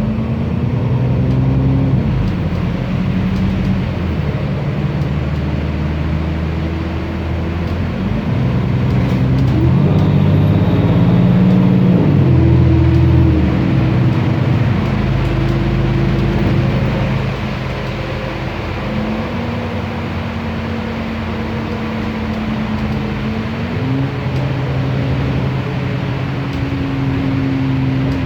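Cummins ISB Euro 6 turbo diesel engine of an Otokar Kent LF city bus running while driving. Its note rises and falls several times as the bus speeds up and slows.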